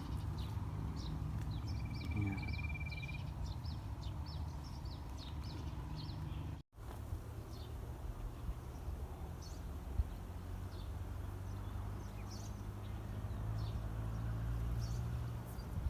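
Outdoor ambience with scattered short bird chirps and one steady high trill about two seconds in, over a continuous low rumble. The sound drops out for an instant about halfway through, and there is a single click near the two-thirds mark.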